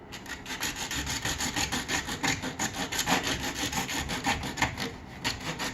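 Hand saw cutting through a PVC sink drain pipe, in quick, even back-and-forth strokes.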